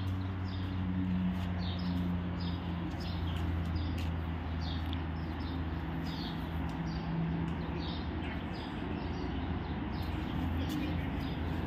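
Small birds chirping, short falling chirps about once a second, over a steady low hum.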